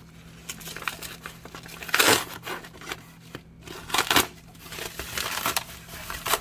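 A cardboard shipping box being opened by hand: crinkling and rustling, with a louder tearing rip about two seconds in and another about four seconds in.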